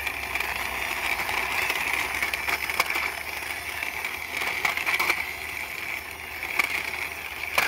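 Small toy car's wheels rolling steadily across a hard surface as it is pushed by hand, a continuous rolling hiss with scattered light clicks and knocks.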